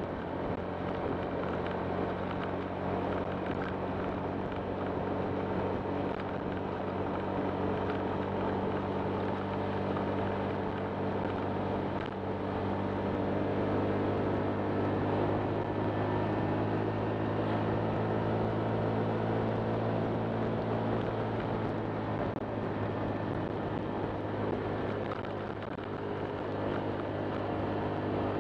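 Honda Click 125 scooter's single-cylinder engine running at a steady pace under way, a little louder in the middle.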